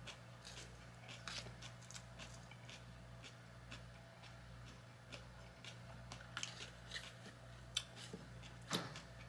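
Close-miked chewing: soft, scattered mouth clicks and small crunches, over a steady low electrical hum.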